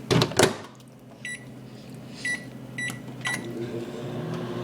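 Microwave oven: two loud knocks, then four short keypad beeps, and the oven starts running with a steady hum about three and a half seconds in.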